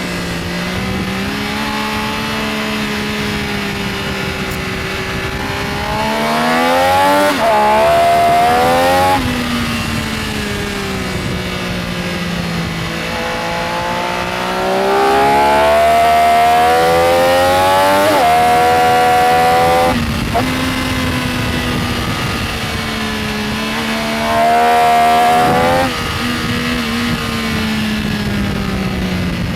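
Benelli Tornado Tre 900's inline three-cylinder engine at track speed, pulling hard three times with its note rising and stepping at gearchanges, between steadier stretches at lower revs.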